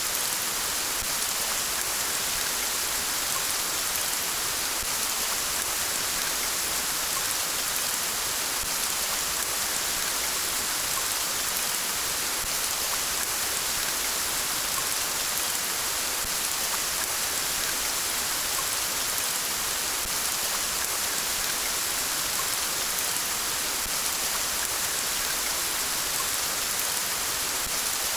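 Steady rain falling, an even hiss of drops with no breaks or changes, possibly mixed with the river's flow.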